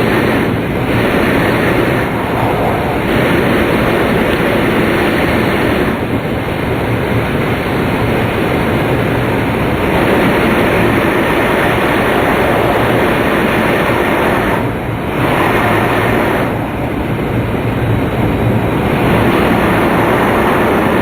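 Tohoku Shinkansen Hayate train (E2 series) running at speed, heard from inside the passenger cabin: a steady rushing of wind and rail noise. It dips briefly about fifteen seconds in.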